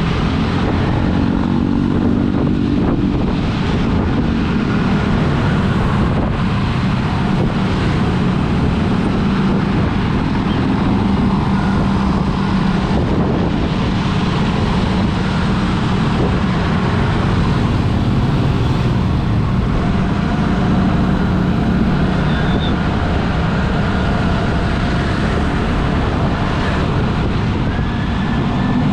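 Steady running noise of a road vehicle on the move: its engine, tyre and wind noise heard from the vehicle itself, with traffic around.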